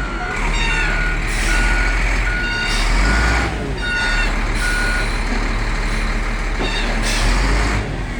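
Heavy diesel machinery running while a reversing alarm beeps steadily, about once every 0.6 seconds, stopping about five seconds in. A few short bursts of louder rushing noise cut in over the engine, from a wheel loader at work moving a large truck.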